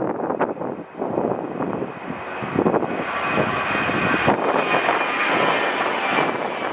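Airliner engines running as a plane passes, a steady rushing roar with a faint high whine that grows stronger after a few seconds, under gusty wind on the microphone.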